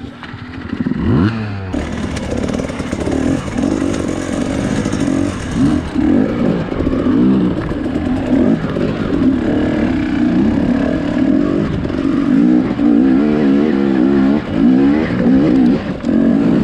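Two-stroke dirt bike engine revving up and down as the throttle is worked over rough terrain, its pitch rising about a second in and then wavering constantly.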